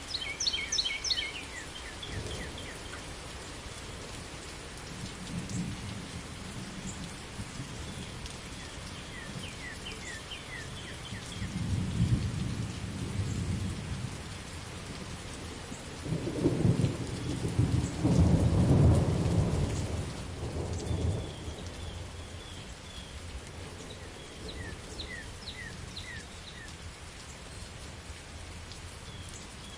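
Steady rain falling, with low rolls of thunder: a long rumble about twelve seconds in and a louder, longer one from about sixteen to twenty-one seconds in. Short high chirps sound now and then over the rain.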